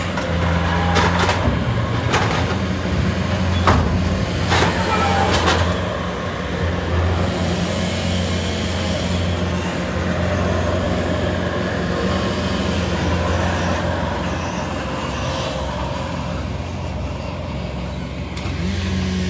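A heavy machine's engine running steadily, with several sharp cracks or knocks in the first few seconds and a brief rise in engine pitch near the end.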